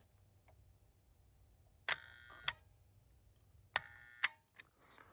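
Four sharp clicks in two pairs, each pair about half a second apart, from small hardware being handled while a control relay is wired in.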